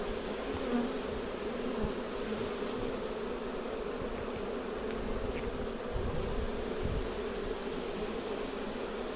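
A swarm of honey bees buzzing in a steady, dense hum close by, with a few low dull bumps about two-thirds of the way through.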